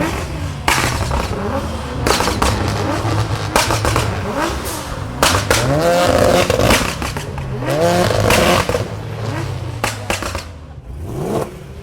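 Car engines revved hard, with several rising revs about five and eight seconds in over a steady engine rumble, and sharp cracks mixed in.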